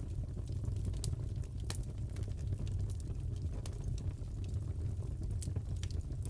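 Fireplace fire crackling: scattered sharp pops over a steady low rumble.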